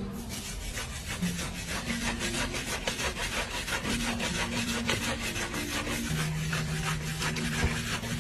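Rapid, continuous back-and-forth scraping strokes, many per second, of something rubbed hard against a surface.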